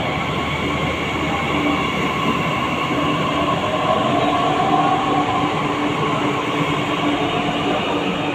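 Delhi Metro train running: a steady rumble with several held whining tones over it, one of which slides up and then down about four seconds in.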